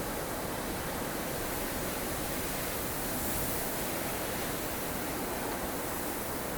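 Strong wind of a blustery snowstorm blowing steadily as a dense, even rush of noise, swelling slightly in the upper hiss around the middle.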